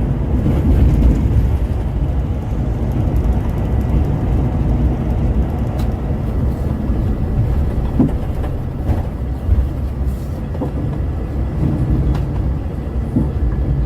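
Steady low rumble of a Scania K410 multi-axle coach under way: engine and road noise, with a few faint knocks.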